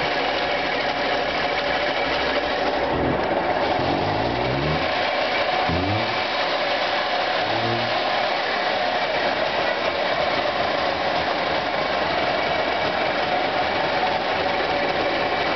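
DKW motorcycle's two-stroke engine running steadily, with three short throttle blips in the first half, each rising in pitch and settling back.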